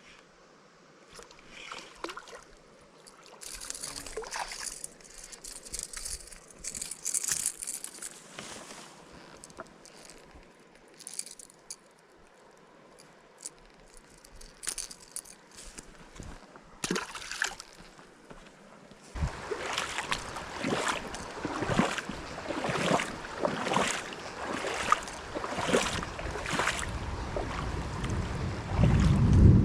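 Water splashing and sloshing at the edge of a stream in irregular strokes, becoming busier about two-thirds of the way through. A deep rumble of thunder begins near the end.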